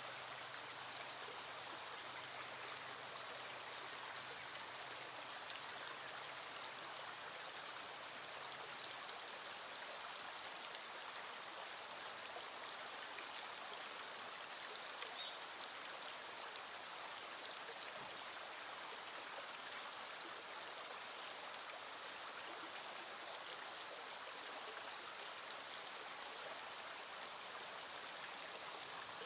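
Small stream flowing steadily, with raindrops pattering in light rain.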